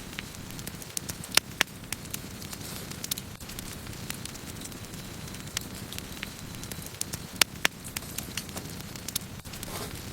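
Wood campfire burning: a steady low rush of flames with frequent, irregular sharp crackles and pops from the burning wood, two of them standing out louder, about a second and a half in and again past seven seconds.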